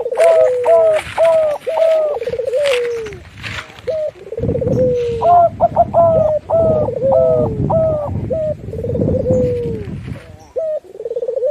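Doves cooing: quick runs of short, hooked coos broken by rolling, purring trills, repeated over and over. A low rumbling noise sits under the calls through the middle.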